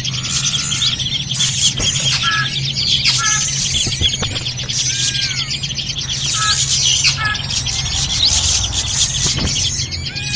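Bird-lure recording of noisy srigunting (drongo) calling: a dense, busy chatter of high chirps and twitters, with short whistled notes that dip and rise in pitch every second or so, over a steady low hum.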